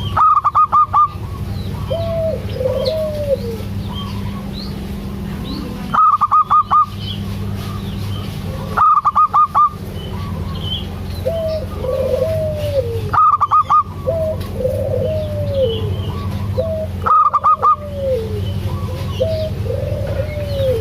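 Zebra doves (perkutut) cooing: repeated short phrases of quick notes ending in a longer arched coo. Five times, a louder burst of four or five rapid notes cuts in, over faint chirps from small birds and a steady low hum.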